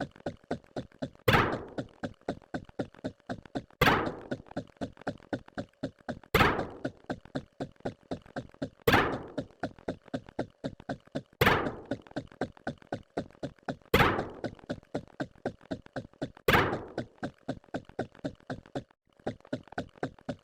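A sharp knocking hit repeating about every two and a half seconds, seven times, each dying away quickly, with a steady run of quicker, fainter ticks between the hits, about three or four a second.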